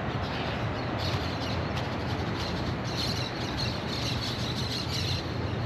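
Steady outdoor background noise with birds chirping on and off over it.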